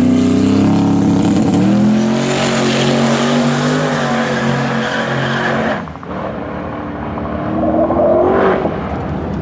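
Twin-turbo 6.0 LS V8 race car at full throttle, its pitch climbing, dipping briefly about two seconds in, then climbing on. About six seconds in it turns suddenly quieter, then rises in pitch again.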